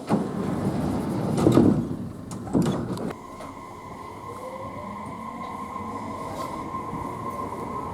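Tobu Noda Line electric train's sliding doors shutting with two loud knocks in the first three seconds. The train then pulls away: a steady tone sets in, and a faint motor whine rises in pitch as it gathers speed.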